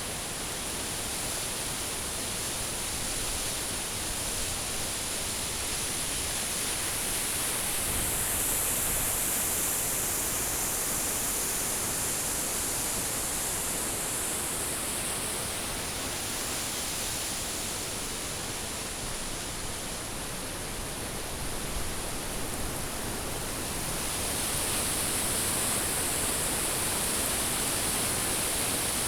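Steady rushing roar of a waterfall. A high hiss swells twice, about a third of the way in and again near the end.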